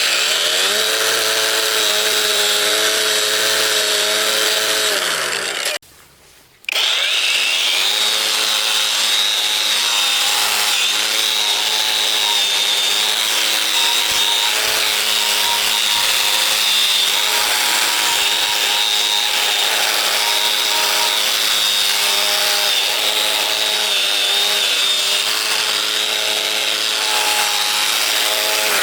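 Electric power tool running steadily at high speed, with a motor whine and a high grinding tone. It stops for under a second about six seconds in, then runs on.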